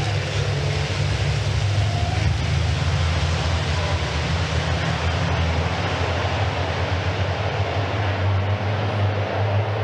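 Racing trucks' diesel engines running at speed on track: a steady low drone under a wash of engine and tyre noise.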